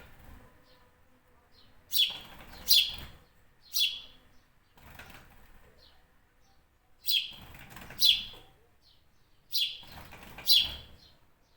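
A bird giving short, sharp, high calls, seven in all, mostly in pairs about a second apart, repeated every few seconds.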